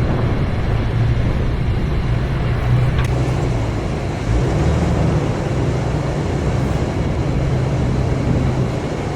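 Toyota FJ Cruiser's 4.0-litre V6 running low and steady as the truck crawls in four-wheel-drive low range with traction control off. A single sharp click comes about three seconds in.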